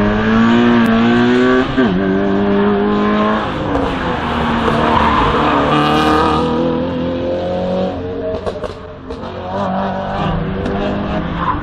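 Race car engine revving hard through an autoslalom run: the pitch climbs, drops sharply at a gear change about two seconds in, then rises and falls as the car brakes and accelerates between the cones, easing off briefly near the end before pulling away again.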